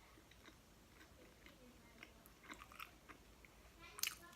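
Close-up chewing of pizza: soft, sparse wet mouth clicks and crackles, with a louder bite or crunch near the end.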